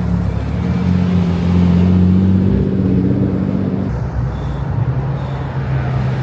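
Car engines running as cars roll slowly past one after another, with a steady engine hum that gives way to another car's engine about four seconds in.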